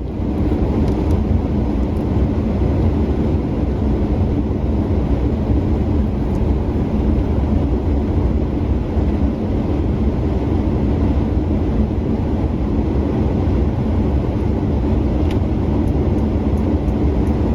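Steady low rumble of engine and road noise inside a Ford F-350 pickup's cab while driving, with a constant hum.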